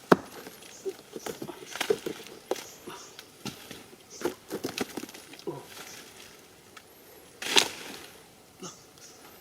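Irregular cracks, snaps and knocks of wood or bark being broken and handled, with a louder crunching rasp about seven and a half seconds in.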